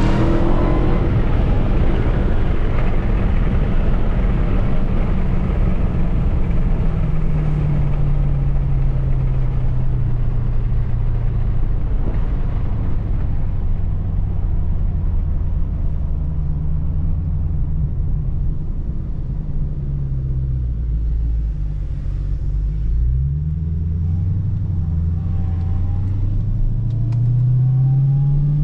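Hellcat Redeye's supercharged 6.2-litre V8 running and revving. Its pitch settles, dips, then rises and falls again a few times near the end, while a loud rushing noise fades out over the first several seconds.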